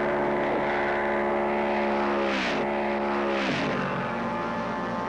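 Car engine running at high revs, with two sharp drops in pitch about two and a half and three and a half seconds in, like gear upshifts under acceleration.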